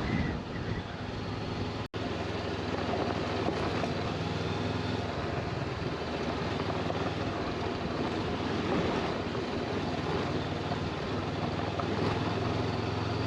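Motorcycle engine running steadily under way, mixed with wind and road noise, with a brief cut-out in the sound just under two seconds in.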